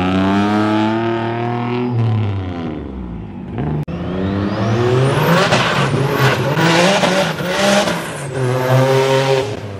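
Turbocharged Nissan 370Z's V6 accelerating hard through the gears. The engine note climbs and drops at each shift, about two seconds in and again near the end, with a high whistle rising over the later pull.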